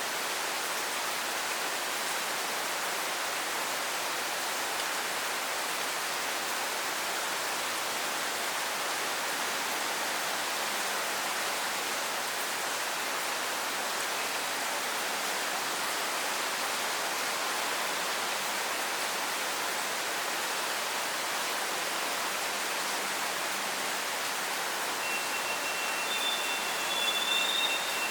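Steady rain falling, an even hiss with no breaks. Near the end a thin, steady high tone and a brief chirp come in over it.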